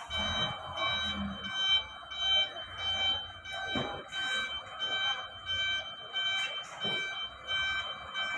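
Truck's electronic reversing alarm beeping repeatedly, about twice a second, over the low rumble of the idling engine.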